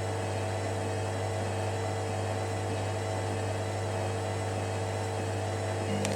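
Hoover Dynamicnext washer-dryer's drum motor running at a steady speed with an even hum while it tries to balance a bathmat load before spinning.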